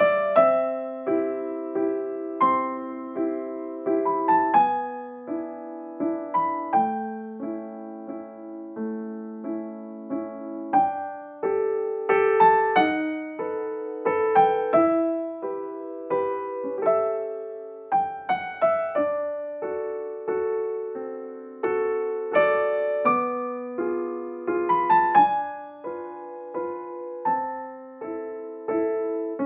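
Soft solo piano music: a slow, gentle melody with chords, each note struck and left to fade.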